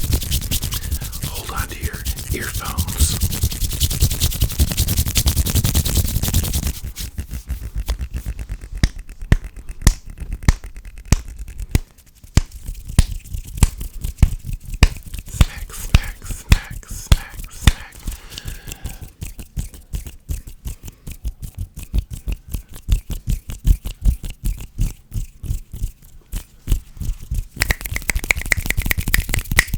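Fast hand sounds close to the microphone: hands rubbing together briskly, then, about a quarter of the way in, a long run of quick sharp clicks and snaps, several a second. Brisk rubbing returns near the end.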